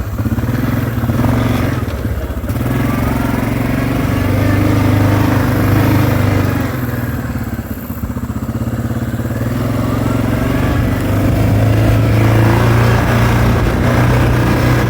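A vehicle engine running steadily. It eases briefly about eight seconds in, then picks back up.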